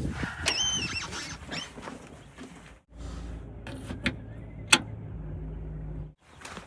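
Heavy diesel machinery engine running, heard in short clips cut one after another. The middle clip has a steady low rumble with a sharp click, and the first has a brief high whine near the start.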